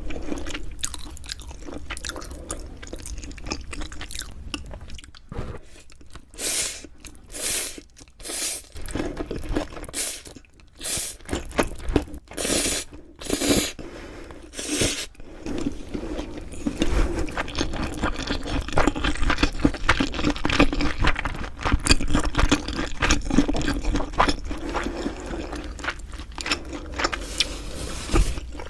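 Close-miked eating sounds: separate crunchy bites through the first half, then steady continuous chewing.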